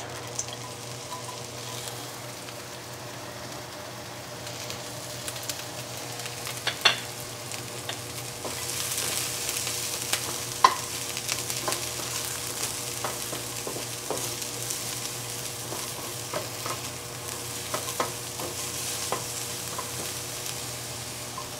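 Sliced onion and garlic sizzling in hot oil in a ceramic nonstick pan, stirred with a wooden spatula that knocks against the pan now and then. The sizzle grows louder about eight seconds in.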